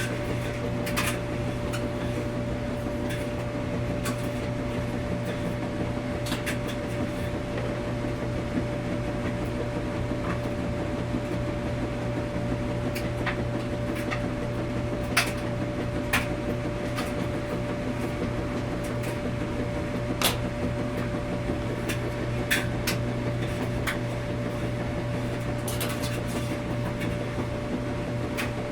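Washing machine running in a laundromat: a steady low hum with a constant mid-pitched tone, broken by light clicks and knocks at irregular moments, a few seconds apart.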